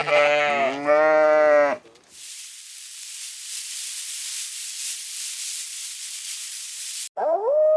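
A sheep bleating twice in wavering calls, followed by about five seconds of steady hiss. Near the end a canine howl begins, rising in pitch.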